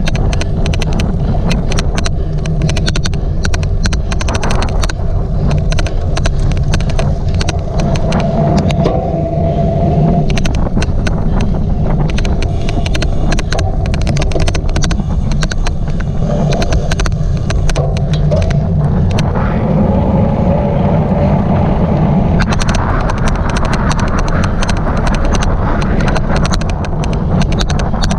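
Heavy low rumble from a cyclocross bike being raced, with a constant stream of sharp, irregular clicks over it: the odd clicking noise.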